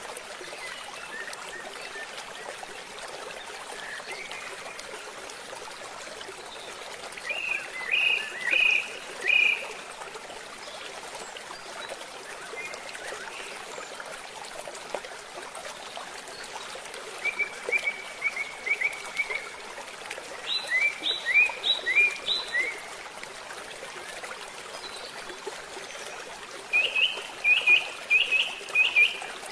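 A bird calling in short phrases of quick repeated notes, four phrases in all, over a steady rush of flowing water.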